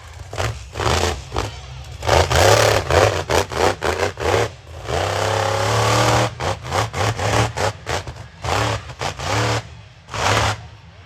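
Monster truck engine revving hard in a string of sharp throttle stabs, with one longer rev about halfway through whose pitch climbs before it drops back to short blips.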